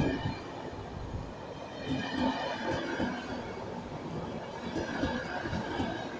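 PKP Intercity passenger coaches rolling past along the platform: a steady rumble of wheels on rails with irregular knocks and faint brief squeals.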